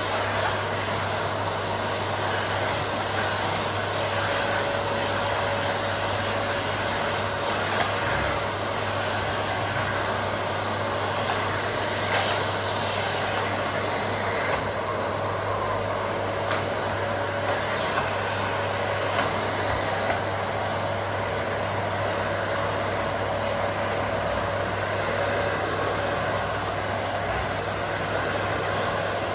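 Vacuum cleaner running steadily over carpet: an even motor whir and suction hiss with a low hum and a few small clicks.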